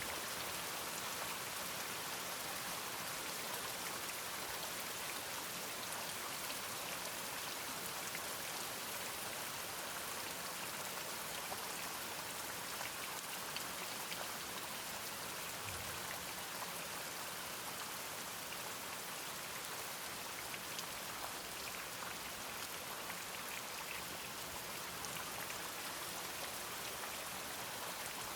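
Steady rain falling, with many small drop impacts.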